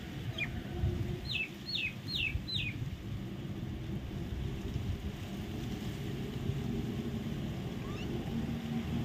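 A bird calling: a quick series of four short, falling whistled notes about a second and a half in, with a faint single note before and another near the end. A steady low rumble runs underneath.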